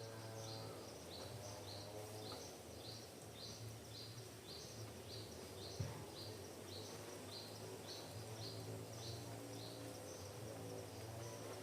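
A bird repeating the same short, high, falling chirp two or three times a second, over a faint steady low motor drone. A single click comes about halfway through.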